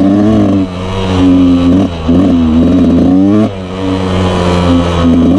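Yamaha YZ125 two-stroke dirt bike engine being ridden, revving up and dropping off about three times as the throttle is rolled on and off.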